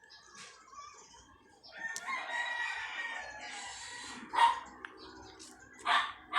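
A rooster crows once, a drawn-out call of about two seconds. Then come three sharp clacks, the loudest sounds, one after the middle and two close together near the end.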